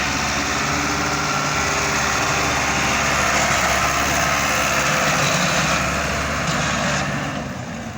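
Ford 5880 tractor's diesel engine running steadily as it pulls a heavily loaded trolley, the sound growing quieter near the end.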